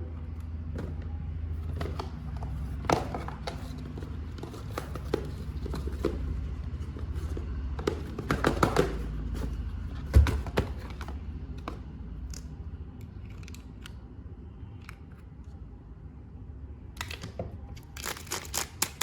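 Action-figure packaging being handled and opened by hand: crinkling plastic and tearing, with scattered clicks and knocks over a low steady hum. A burst of crinkling comes just before the middle, and the loudest sound is a single sharp knock about ten seconds in.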